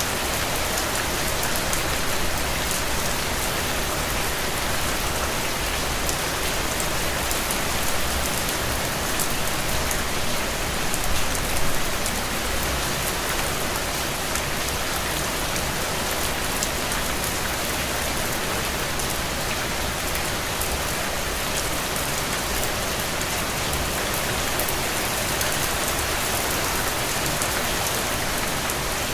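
Steady rain with fine patters of drops on a surface, an even hiss, swelling briefly a little louder about eleven seconds in.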